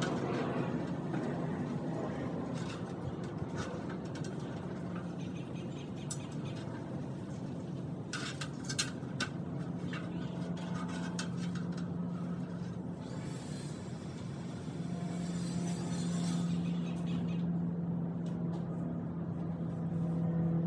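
A steady low machine hum with a held droning tone, with a few sharp clicks about eight to nine seconds in.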